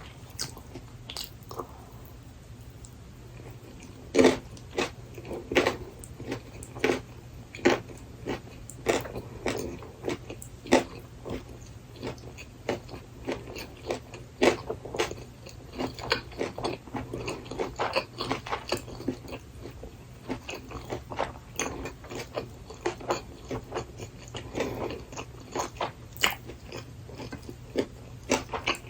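Close-miked chewing of burdock-root gimbap: many short, crisp crunches and wet mouth clicks, sparse at first and coming thick and fast from about four seconds in, over a steady low hum.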